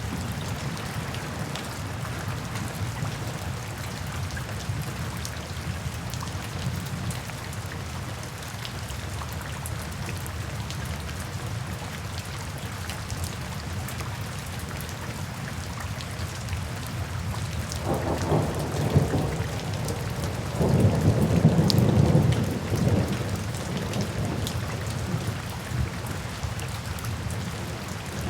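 Steady rain falling, with scattered drops ticking through it. Thunder rumbles twice in the second half: a short roll, then a longer, louder one.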